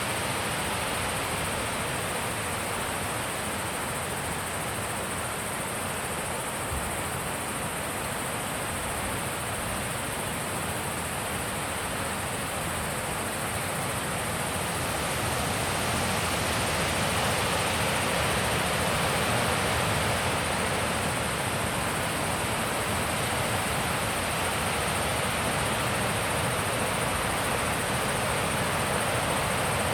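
Wind blowing steadily across the open mountain pass, growing stronger about halfway through.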